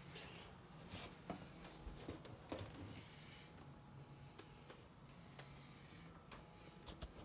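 Near silence: faint room tone with a low hum and a few light knocks and clicks of someone moving about in a confined space.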